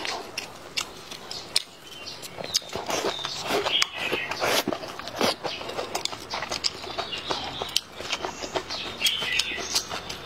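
Close-miked chewing and lip-smacking of chicken and vegetables: a quick, irregular run of wet clicks and crunches.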